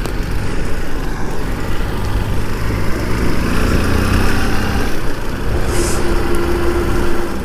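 A motor vehicle's engine running steadily, with road and wind noise, and a steady tone briefly near the end.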